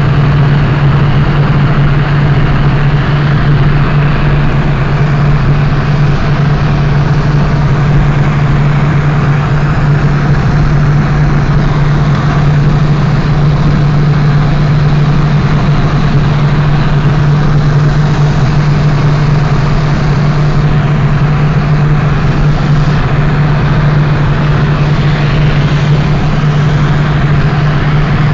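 Wind rushing hard over the microphone at about 180 km/h, over a steady engine drone held at constant revs. It is loud and even throughout, with no change in speed.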